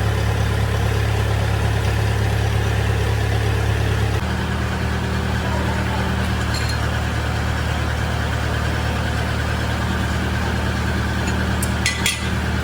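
A motor running steadily with a low hum; its tone shifts about four seconds in, and a few sharp clicks come near the end.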